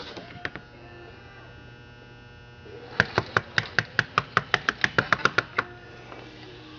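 A fast, even run of about seventeen sharp metallic clicks, roughly six or seven a second, from about three seconds in to a little past five and a half: .404 skip-sequence saw chain being pulled by hand around a 36-inch sprocket-nose bar, the links clicking over the nose sprocket. A steady electrical hum underlies it.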